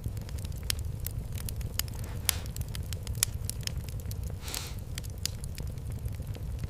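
Fireplace fire crackling: irregular sharp pops and snaps over a low steady rumble, with a brief hiss about four and a half seconds in.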